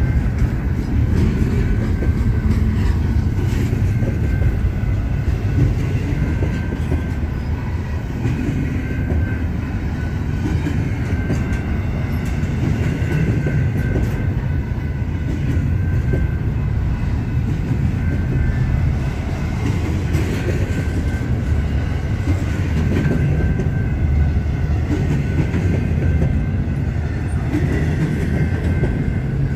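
Double-stack container train's loaded well cars rolling past close by: a loud, steady rumble of steel wheels on the rails, with faint steady high ringing tones over it.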